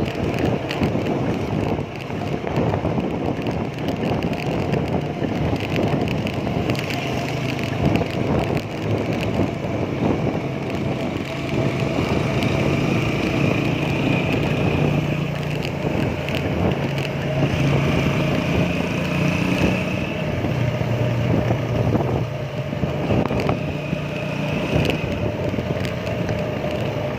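Continuous road and traffic noise heard while riding a bicycle, with the low hum of passing motor vehicles rising and falling.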